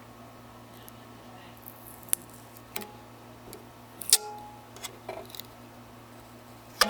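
Hands picking at the protective plastic film on a new power supply: about half a dozen separate sharp clicks and taps, a few with a brief ringing note like a tapped metal casing.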